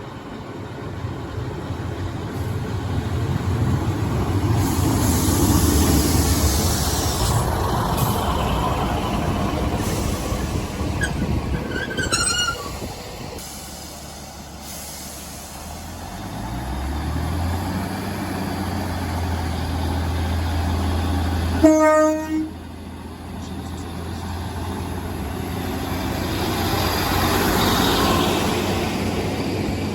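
A diesel train rumbling past, then a diesel engine note rising and holding steady as a train pulls away. A short horn blast sounds about two-thirds of the way through and is the loudest moment.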